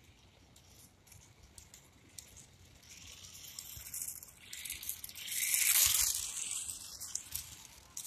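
A 1/43-scale micro RC short course truck running at full speed on its small battery-powered motor. The high hiss of motor and tyres grows louder as it comes in, is loudest as it passes close about six seconds in, then fades away.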